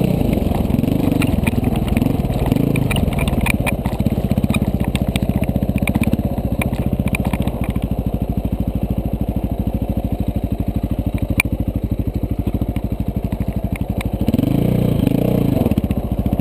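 KTM 450 dual-sport motorcycle's single-cylinder engine running, its revs rising and falling in the first few seconds and again near the end, with a steadier stretch in between. Scattered sharp clicks and clatter over the engine.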